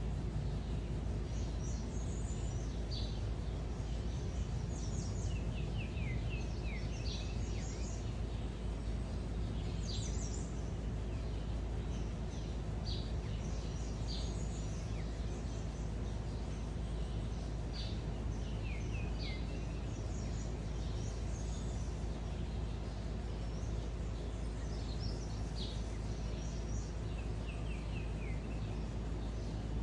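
Several small songbirds calling and singing in short chirps and quick downward-sliding notes, scattered throughout, over a steady low background rumble.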